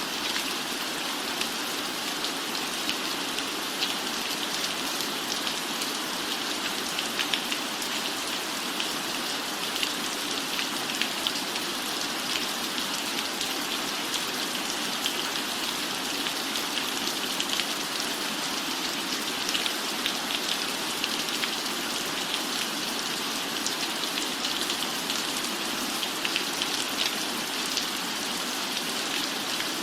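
Steady rain falling, an even hiss dense with the small ticks of individual drops.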